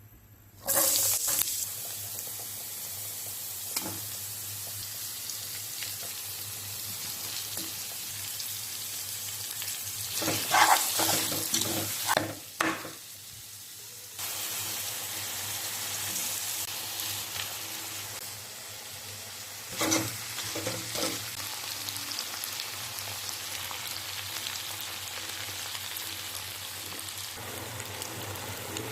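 Food frying and sizzling in a pan. The sizzle jumps loud about a second in, and a few louder clattering knocks come around the middle and again about two-thirds of the way through.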